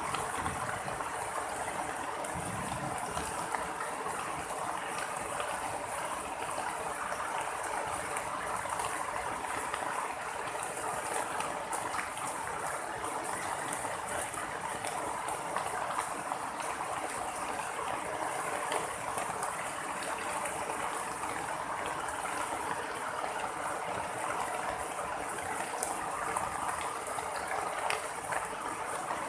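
Steady heavy rain falling and splashing, with scattered sharp drip ticks; no thunder is heard.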